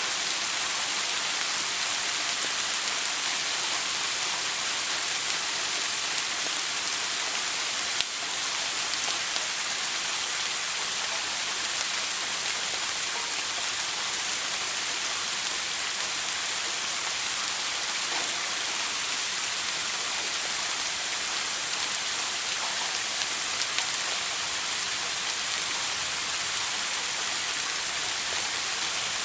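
Running shower water, a steady hiss of spray falling and splashing, with a single short click about eight seconds in.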